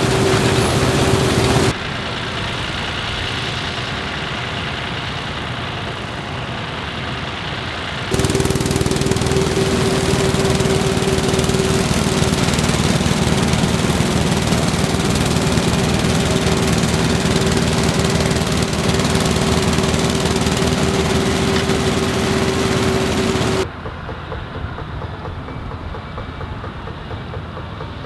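Claas Huckepack implement-carrier combine, VW-engined, running while threshing wheat: steady machine noise with a constant whine. The sound drops and jumps abruptly about 2, 8 and 24 seconds in as the shot changes, and the whine is strongest in the middle stretch.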